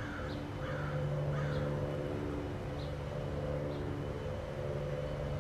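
A bird calls three times in the first second and a half, short calls about half a second apart, over a steady low hum.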